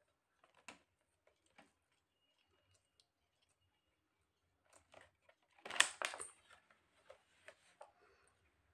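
Faint chewing and soft mouth clicks from a person eating apple cake with her mouth closed, with a short, louder rustle a little after halfway through.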